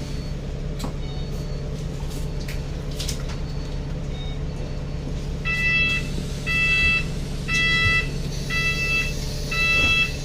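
A vehicle engine idling with a steady low hum. About halfway through, an electronic warning beeper starts sounding six evenly spaced beeps, about one a second, each about half a second long, like a reversing alarm.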